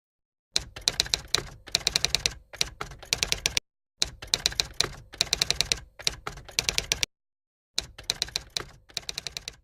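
Rapid typing on a keyboard: fast runs of clicking keystrokes in bursts, stopping dead twice for a moment.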